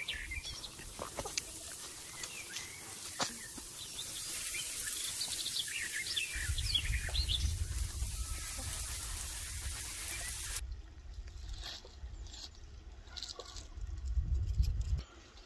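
Small birds chirping in the background, with a low rumble of wind on the microphone coming in about six seconds in.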